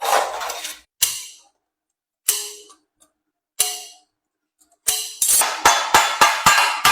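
Hammer blows on metal: three single strikes, each ringing briefly, about a second and a quarter apart, then from about five seconds in a quick steady run of blows, about three a second.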